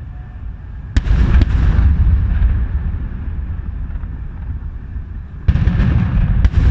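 Aerial fireworks shells bursting: a sharp bang about a second in, a second crack just after, and a long rolling rumble, then another loud burst and crack near the end.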